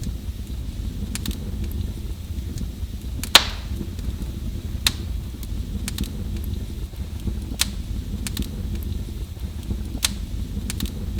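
Wood fire burning in a fireplace: a steady low rumble of flame with sharp crackles and pops every second or two, the loudest pop about three seconds in.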